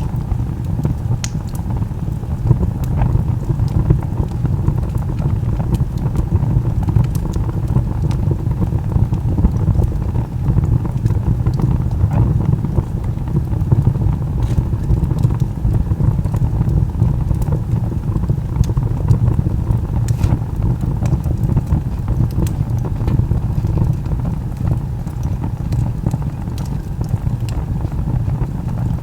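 Wood fire burning: a steady low roar of the flames with scattered sharp crackles and pops from the burning logs.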